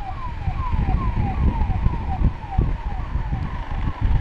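Ambulance siren wailing in quick falling sweeps, about two and a half a second, fading near the end, over a steady low rumble.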